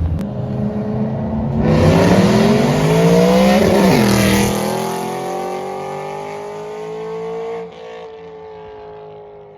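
A car engine accelerating hard as the car pulls away. The pitch climbs for a couple of seconds, drops sharply at a gear change about four seconds in, then climbs slowly again as the sound fades into the distance.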